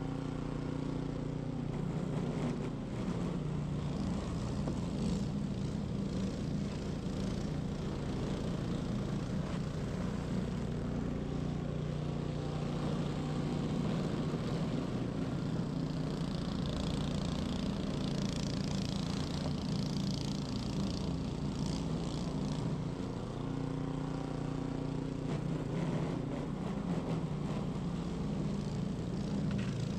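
Ariens 21-inch professional snow blower running steadily while clearing snow, a constant engine drone with a brighter hiss that swells for several seconds past the middle.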